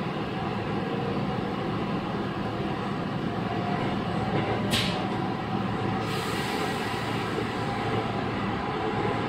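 Inside a Chiba New Town Railway 9100-series WN-drive motor car running between stations: steady rumble of the running train with a few steady motor tones, as at constant speed. A short sharp hiss about halfway through.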